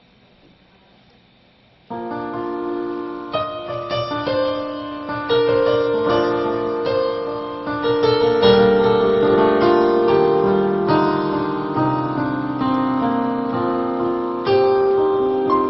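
Piano playing a slow song introduction of held chords with a melody above, starting about two seconds in after a short lull.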